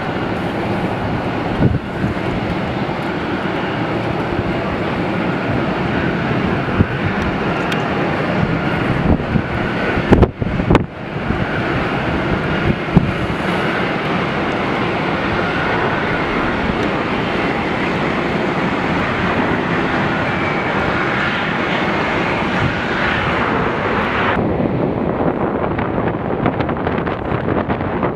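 Jet airliner engines roaring steadily as an aircraft passes, with a faint whine riding on top and wind buffeting the microphone.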